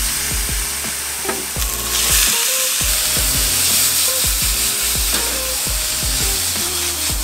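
Ribeye steak, kimchi and onion sizzling in a hot skillet on a propane camp stove while being stirred with a spatula. The sizzle grows louder about two seconds in.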